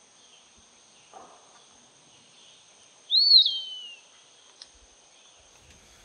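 Eastern wood-pewee singing a single clear whistled phrase about three seconds in: a brief rise, then a long downward slur in pitch.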